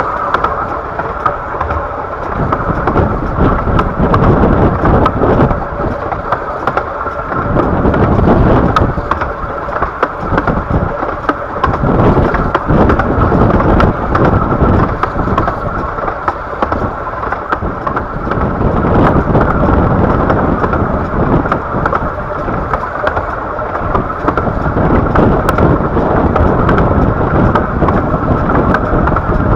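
A 15-inch gauge miniature railway train running, heard from a carriage: a loud, steady rumble that swells and eases every few seconds, with many small clicks from the wheels on the track.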